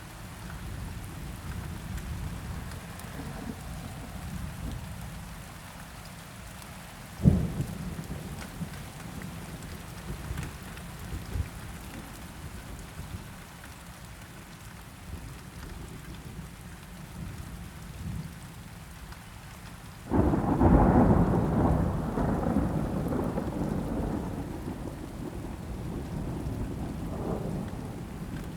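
Steady rain with thunder. There is a sharp thunderclap about seven seconds in. About two-thirds of the way through a loud roll of thunder starts suddenly and slowly dies away.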